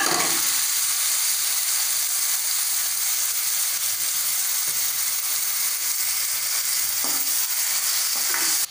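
Marinated chicken pieces dropping into hot oil in a frying pan with onion-tomato masala, setting off a steady sizzle. A slotted spatula stirs the pieces through the spitting oil.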